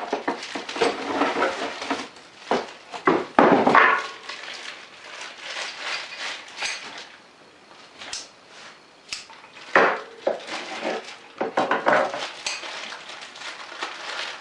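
Unpacking a lathe tool holder: plastic tray and metal bracket parts being handled, with rustling packaging and irregular clatter and clinks of hard pieces knocking together. A few sharper knocks stand out about ten and twelve seconds in.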